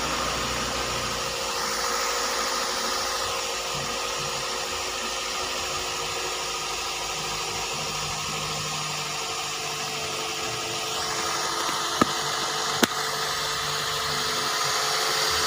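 Toyota Vios Gen1's 1.5-litre four-cylinder VVT-i engine idling steadily. Two short sharp clicks come about a second apart near the end.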